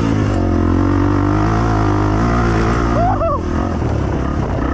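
Dirt bike engine running at a fairly steady throttle, its pitch holding nearly level.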